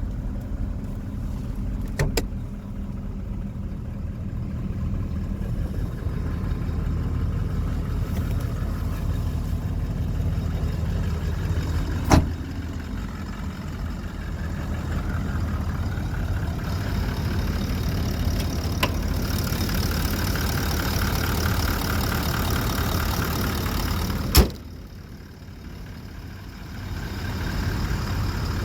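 Toyota Land Cruiser pickup's 4.5-litre V8 turbo-diesel idling with a steady low rumble. Four sharp knocks stand out over it, the last followed by a few seconds of quieter sound before the engine rumble returns.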